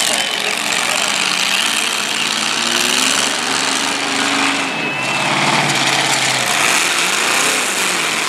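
Several demolition derby cars' engines running hard and revving together, one engine's pitch climbing and holding for a few seconds before it drops back.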